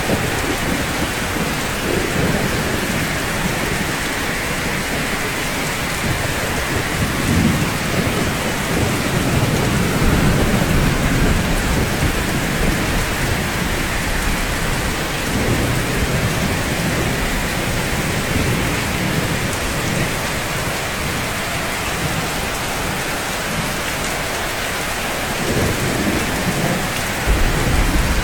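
Steady rainfall on a rooftop, an even hiss, with low rumbles swelling up several times, as of distant thunder.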